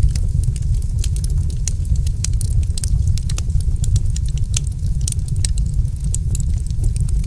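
Wood fire in a fireplace crackling: many irregular sharp snaps and pops over a steady low rumble of the flames.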